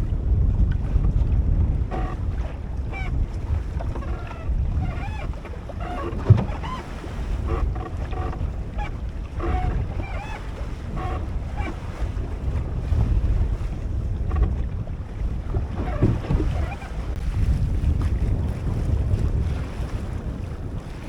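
Wind buffeting the microphone while water splashes and gurgles along the hull of a small sailboat under way, with a single knock about six seconds in.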